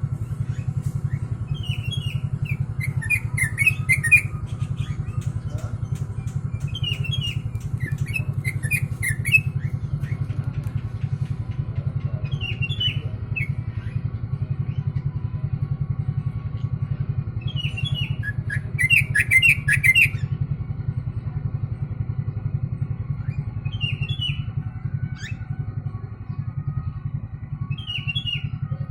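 Trucuk bulbul singing short chattering phrases learned from the kutilang (sooty-headed bulbul), a phrase every four to six seconds, some ending in sharp high notes. A steady low hum runs underneath.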